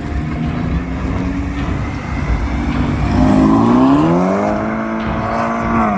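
Car engine rumbling low, then revving up about halfway through as the car accelerates away, its pitch rising and holding high near the end.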